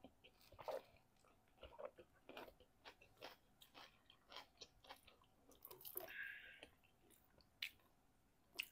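Close-miked chewing and wet mouth smacks from people eating, in an irregular run of short clicks a few times a second. There is a brief rustle about six seconds in.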